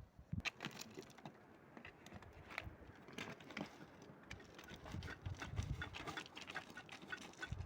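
A rapid, irregular run of light clicks and taps, without a steady rhythm.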